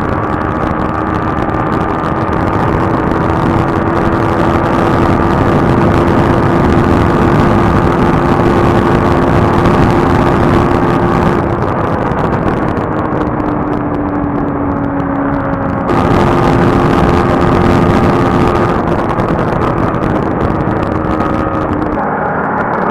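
Motorcycle riding at speed, its steady engine note under heavy rushing wind and road noise on the microphone. The engine eases off about eleven seconds in and pulls strongly again around sixteen seconds.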